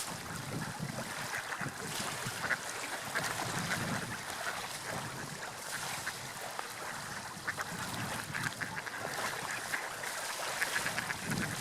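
Water lapping and splashing, with short bird calls, like waterfowl, sounding over it again and again.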